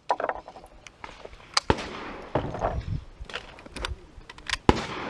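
Gunshots: about half a dozen sharp reports fired at uneven intervals, including two close pairs.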